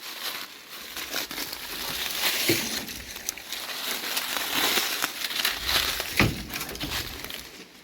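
Footsteps crunching and crinkling through dry ground debris, with irregular small crackles and a couple of louder snaps.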